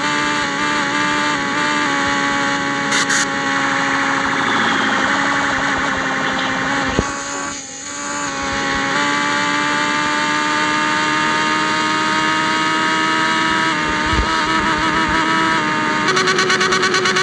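Yamaha XJ6 inline-four engine running loud through an aftermarket exhaust pipe while riding, holding a steady note. About seven seconds in the engine note and level dip briefly, then pick up again and hold.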